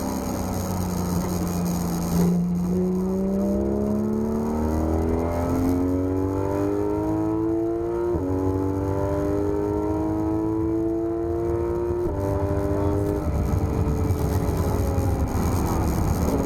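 Porsche 991 GT3 RS's flat-six engine pulling hard through the gears: the revs climb steadily, drop sharply on quick upshifts about 8 and 12 seconds in, then fall away as the throttle is lifted near the end.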